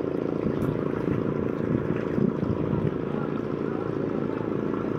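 Racing boats powered by Mitsubishi L300 van engines running, a steady engine drone.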